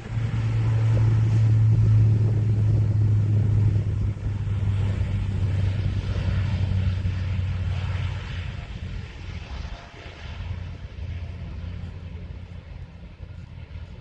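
Aircraft engines running with a steady low drone. It is loudest over the first half, then fades away.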